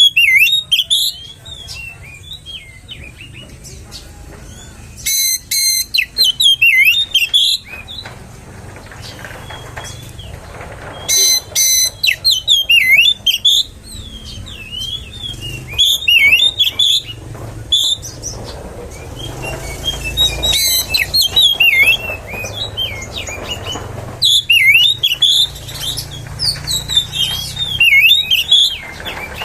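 Oriental magpie-robin (kacer) singing a loud, varied lure song: bursts of quick sweeping whistles and rapid chattering runs, with short pauses between phrases. A steady low hum runs underneath.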